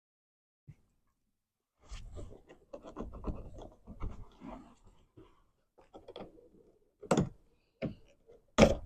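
Plastic car door trim being worked loose by hand, starting about two seconds in: irregular scraping and rubbing, then a few sharp clicks near the end, the loudest just before it ends.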